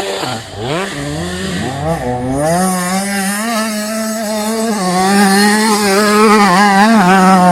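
Motocross bike engine at high revs. The pitch drops and rises a few times in the first two seconds as the throttle is worked, then holds steady with small wavers and grows louder toward the end.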